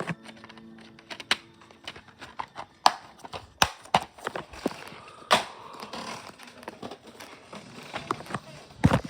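Irregular knocks and clicks, a sharp tap every second or so with a louder cluster near the end, over faint background noise.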